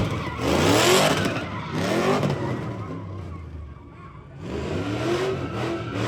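A car engine revved hard over and over, its pitch sweeping up several times in quick succession, dropping back to a lower level midway before revving up again.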